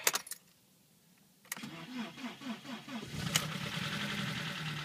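BMW E30's M40 four-cylinder engine being started: a key click, then the starter cranks a handful of times before the engine catches about three seconds in and settles into a steady idle. A light tapping from the valve gear remains in the idle, which the owner puts down to the tappets being starved of oil, possibly from a clogged oil spray bar.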